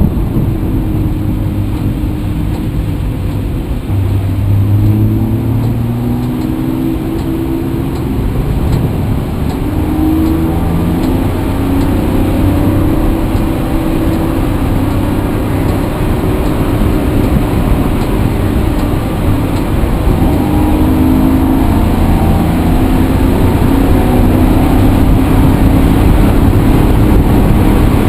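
Vehicle engine running under load, its note stepping up and down as it accelerates through the gears, with a strong low rumble and growing louder toward the end.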